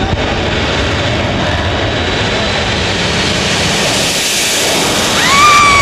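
Jet dragster's turbine engine running with a loud rushing roar whose hiss swells a few seconds in. A high steady whine rises out of it near the end.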